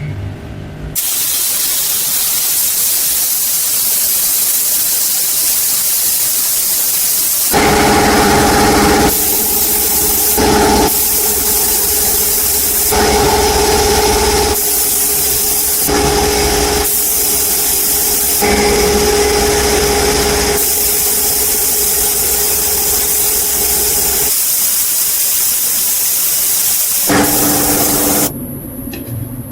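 A loud, steady hiss like air or spray under pressure, starting about a second in and stopping near the end. A motor's hum switches on and off several times over the middle of it.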